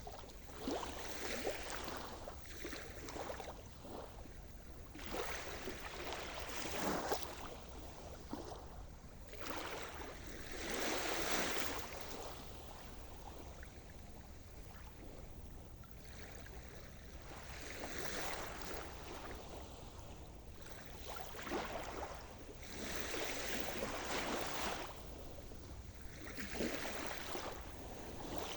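Sea surf: waves breaking and washing up the shore one after another, each a swell of rushing noise that builds and fades, a few seconds apart.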